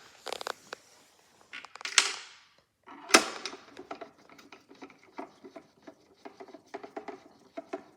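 Clicks and knocks of plastic toy-washing-machine parts being handled and screwed back together by hand. There is a short scrape near two seconds and a sharp knock about three seconds in, followed by a run of quick small ticks.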